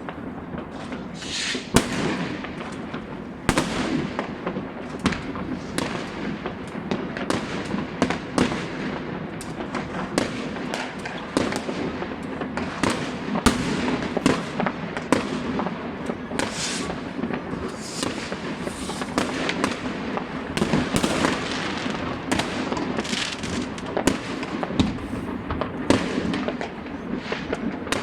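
Many fireworks and firecrackers going off at once: sharp bangs several times a second over a continuous crackling din.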